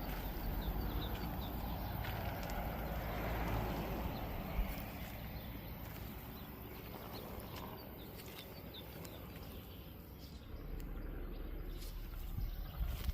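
Outdoor ambience: wind rumbling and buffeting on the microphone, with faint high chirps from small birds.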